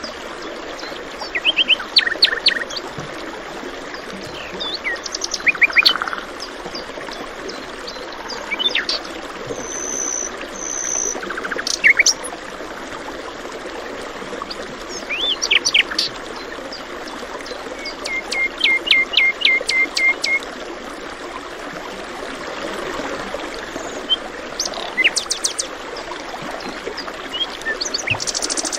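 Several songbirds chirping and trilling over a steady rush of flowing water, with a quick run of repeated notes partway through.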